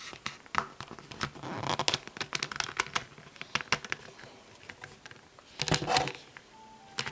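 Hands handling a plastic action figure and its parts: irregular small plastic clicks and brief scrapes, with the loudest scrape about six seconds in.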